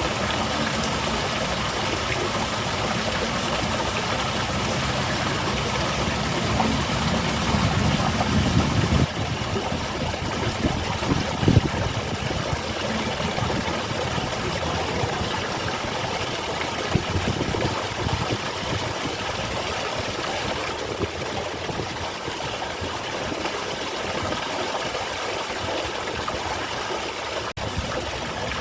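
Garden waterfall: water falling and splashing in a steady rush. A low rumble swells for a few seconds about a third of the way in.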